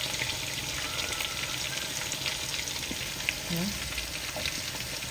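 Pork ribs frying in hot oil in a nonstick wok: a steady sizzle with fine crackling pops as tongs lift the pieces.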